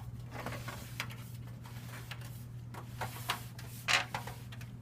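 Handling noise of a metal 20-inch box fan being turned around by hand: scattered light knocks and rattles, the loudest just before the end, over a steady low hum.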